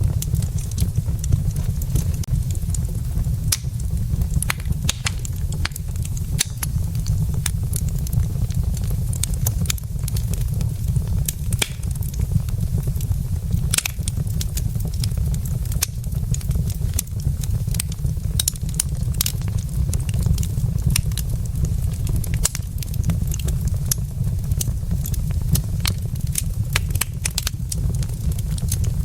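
Wood fire burning in a fireplace: many sharp, irregular crackles and pops over a steady low rumble.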